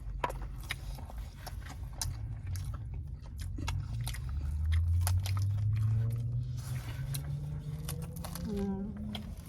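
Someone biting into and chewing a chicken shawarma wrap with fries inside, with small crunching clicks. Under it a low rumble rises in pitch and is loudest about halfway through.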